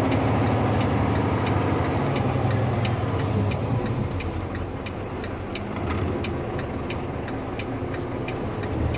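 Tractor-trailer's diesel engine running with a steady low drone while the truck moves, and a turn-signal flasher clicking about two to three times a second from a second or so in.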